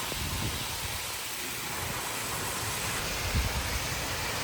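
Heavy thunderstorm rain falling in a steady hiss, with gusty wind buffeting the microphone in low rumbles, one a little stronger about three and a half seconds in.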